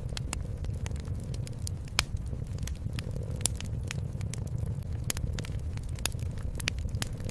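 Wood fire crackling, with irregular sharp pops (one louder pop about two seconds in), over a steady low cat purr.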